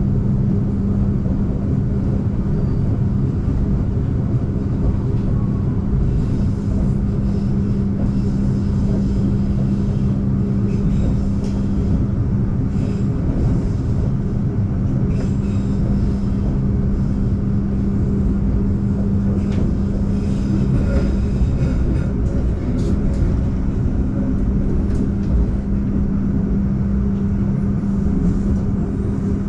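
Argo Bromo Anggrek passenger train running at speed, heard from inside the coach: a steady rumble with a constant low hum and scattered faint clicks from the wheels and rails.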